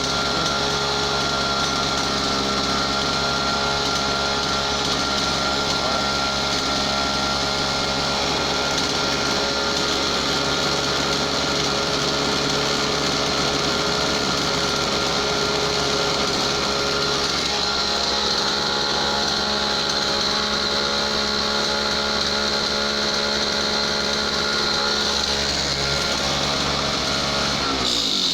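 Two-stroke engine of a brush cutter running steadily at a constant speed.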